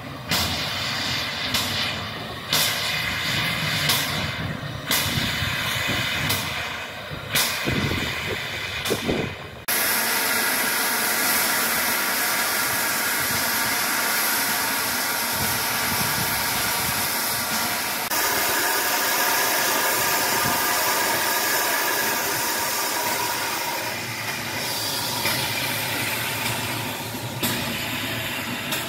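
MÁV class 424 steam locomotive under steam: for about the first ten seconds, irregular short bursts of steam. Then a loud, steady hiss of escaping steam starts suddenly and runs on until near the end.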